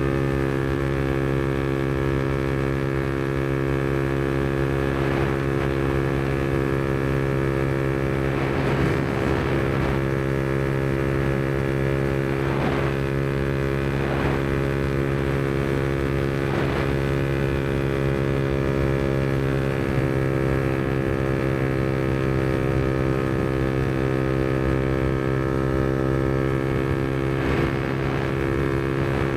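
Yamaha MT-125's single-cylinder four-stroke engine running through a Black Widow aftermarket exhaust, holding a steady, unchanging pitch. A few brief whooshes rise and fall over it.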